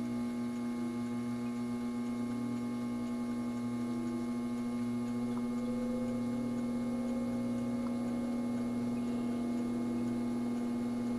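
An all-metal solder fume extractor fan, started at its lowest speed, humming steadily as it slowly comes up to speed, with a faint tone that rises gradually through the middle. It takes a while to get up to speed; its hub bearing has been freshly oiled.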